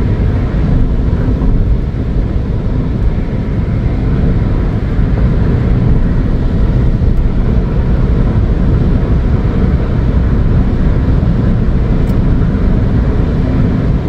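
Ford Fiesta 1.0 EcoBoost turbocharged three-cylinder engine pulling steadily at about 3,100 to 3,500 rpm at high motorway speed, heard from inside the cabin under a dense, steady road and wind rumble. The engine speed climbs slowly as the car gains speed.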